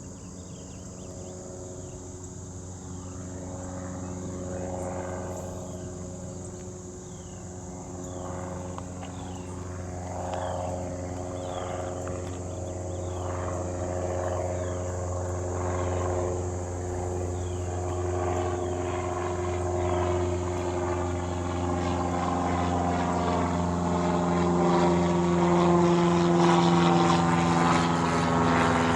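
An airplane approaching, its engine drone growing steadily louder over the whole stretch.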